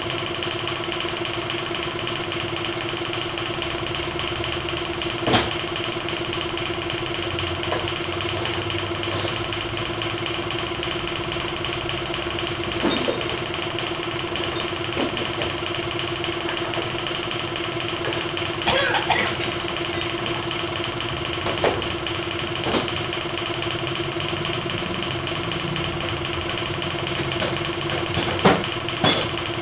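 A machine runs with a steady hum throughout, and short knocks and clicks of work come every few seconds, with a cluster of louder knocks near the end.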